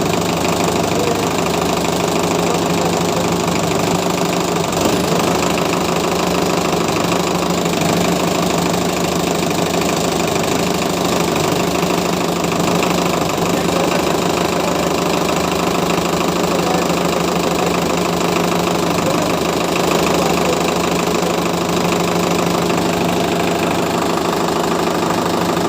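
Ace tractor's diesel engine running steadily at a constant speed.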